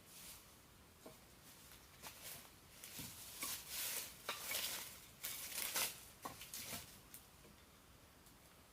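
Rustling with scattered light clicks, heaviest from about two to seven seconds in.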